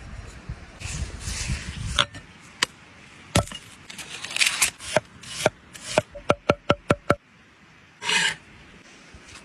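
Rubbing and scraping on wood, then a run of sharp knocks, about four a second for a couple of seconds, each with a short ring, and one more brief rub near the end.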